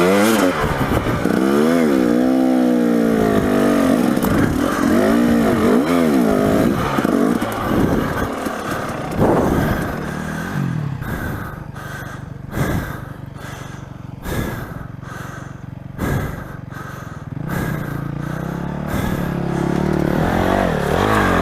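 Dirt bike engine revving hard in repeated rising and falling surges, as on a steep rough climb. About halfway through it drops back and the bike knocks and clatters over rock, then it revs up again near the end.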